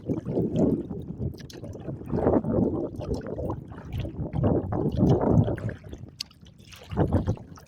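Choppy lake water sloshing and gurgling against a kayak's hull in irregular surges, with gusts of wind on the microphone.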